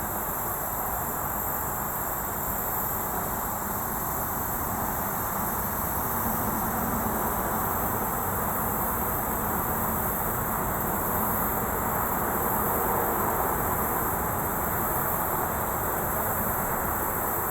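Steady distant highway traffic rumble, with a continuous high-pitched insect drone over it.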